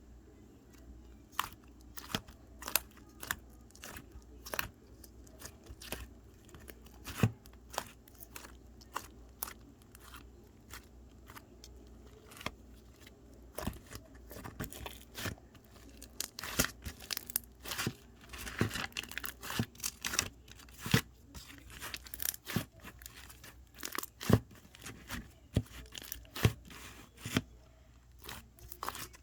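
Slime being squeezed and stretched by hand, giving many sharp, irregular pops and crackles. These become more frequent and louder about halfway through.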